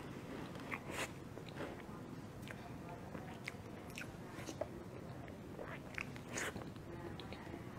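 Close-miked mouth sounds of someone eating soft matcha sponge cake: wet chewing with irregular sharp lip smacks and clicks.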